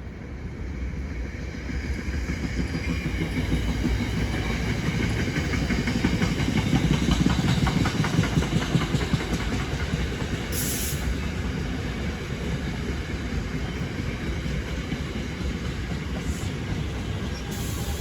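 Train passing at speed on the Northeast Corridor, its wheels clattering over the rails. The sound builds to its loudest about seven to nine seconds in, then continues steadily as the cars go by.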